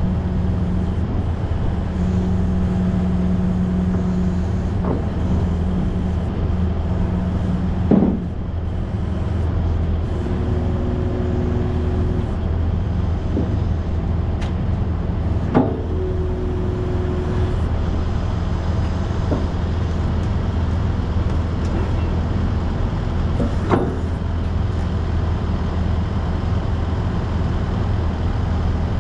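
Semi-truck engine running with a steady low drone, with a few short sharp knocks about 8, 15 and 24 seconds in.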